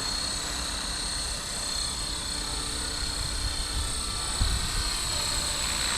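Blade Fusion 360 electric RC helicopter hovering: a steady high whine from its motor and spinning rotors over a rushing rotor hiss. A brief low thump comes about four and a half seconds in.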